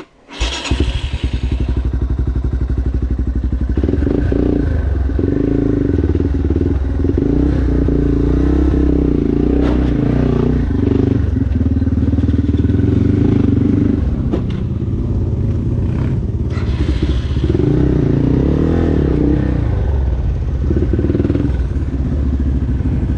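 Dirt bike engine running and revving hard under load, with occasional knocks and clatter.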